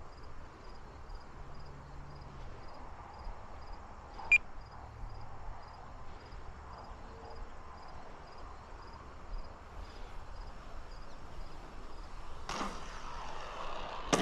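Faint outdoor background with a cricket chirping steadily at a high pitch. There is one sharp click about four seconds in, and a rush of noise rises near the end.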